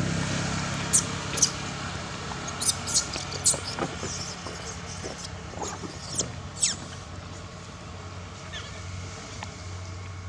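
A baby monkey giving high-pitched squeaks and falling squeals, several in quick runs during the first seven seconds and only one or two after, over a steady low hum.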